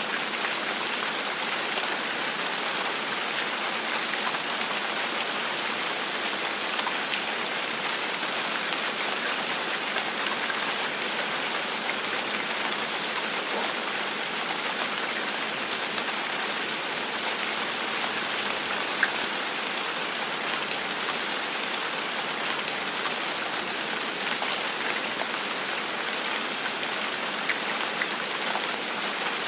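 Steady gentle rain falling, an even hiss of many raindrops with a few sharper drop ticks here and there.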